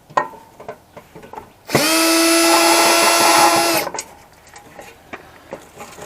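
Power drill backing out a screw: the motor spins up and runs at a steady whine for about two seconds, then stops. Light clicks of handling come before and after.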